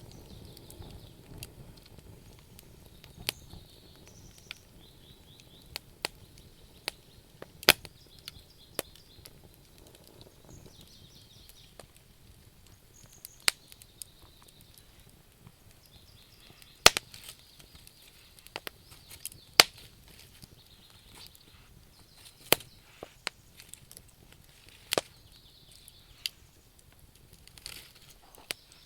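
Wood fire crackling, with sharp irregular pops every second or few over a soft hiss.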